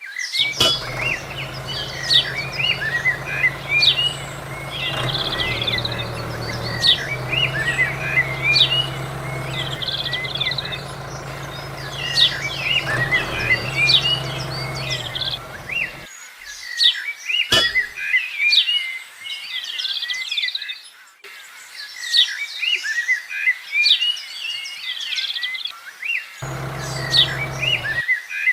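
Many small birds chirping and calling throughout, over the steady low hum of a small engine-driven water pump running. The hum cuts off abruptly about halfway through and comes back briefly near the end.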